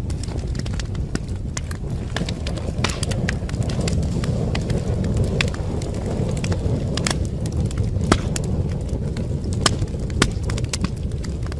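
Wood fire in a fireplace crackling: irregular sharp snaps and pops, several a second, over a steady low rumble of the flames, with a couple of louder pops past the middle.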